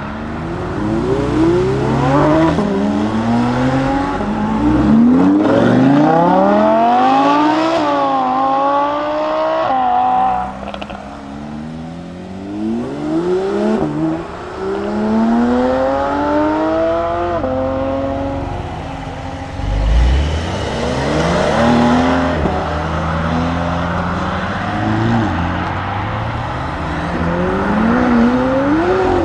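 Lamborghini Huracan STO's naturally aspirated V10 accelerating hard on track, its pitch climbing and then dropping back with each upshift, again and again. At times more than one engine note overlaps.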